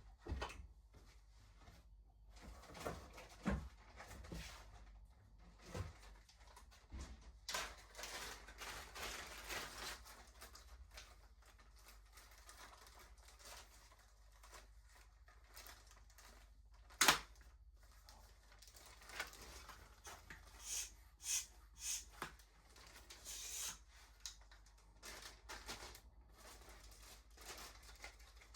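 Scattered clicks, knocks and rustling from parts and packaging being handled during e-bike assembly, with one sharp knock about 17 seconds in.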